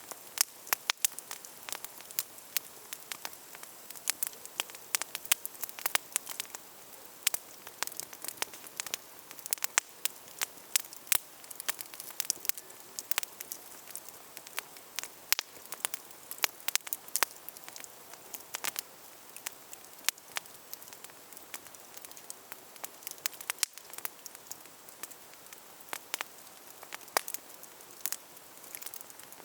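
Wood campfire burning, with frequent irregular sharp crackles and pops over a steady soft hiss.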